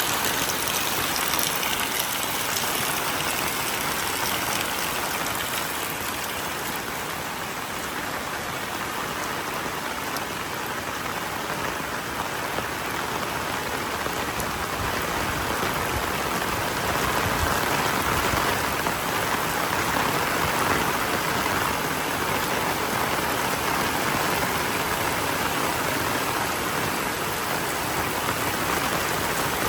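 Heavy monsoon rain falling steadily, a dense even hiss of raindrops on surfaces that swells a little in the second half.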